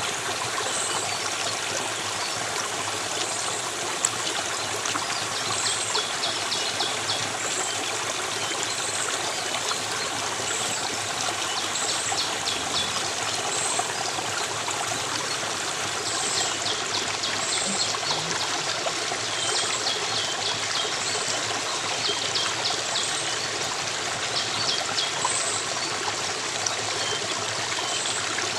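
Steady running water of a stream, with small birds calling over it: a short high chirp repeating about once a second and bursts of rapid trills every few seconds.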